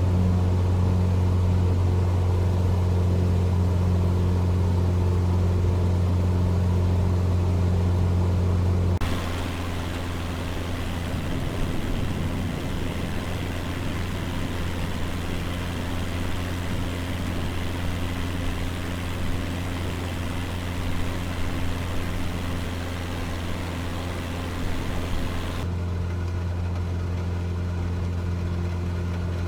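Cessna 172's piston engine and propeller droning steadily. About nine seconds in the sound shifts abruptly to a slightly lower drone with more hiss, and it shifts back near the end.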